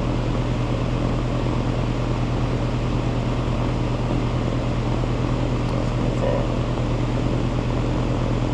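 Air-conditioning condensing unit running: a steady low hum with the even rush of its fan.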